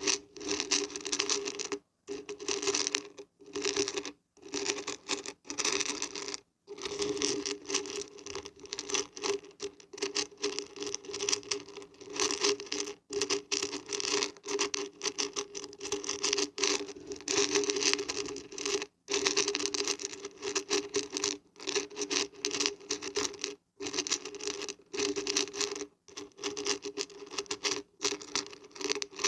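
Beans and barberries rattling as they are shaken, a dense patter in long runs broken by several short pauses.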